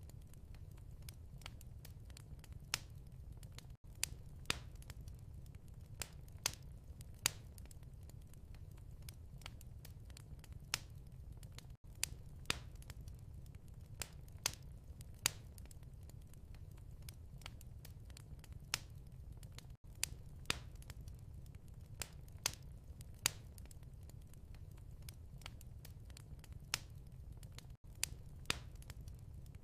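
Wood fire crackling: irregular sharp pops and snaps over a low steady rumble, with a brief dropout about every eight seconds.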